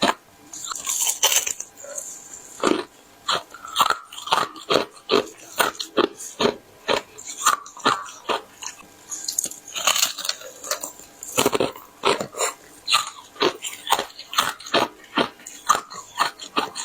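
Teeth biting and crunching through hard frozen ice close to the microphone: a continual run of sharp cracks and crunches, about two a second.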